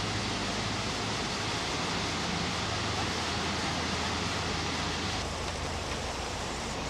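Narrowboat's engine running steadily as a low hum under a steady rush of wind and water noise; the rush eases about five seconds in.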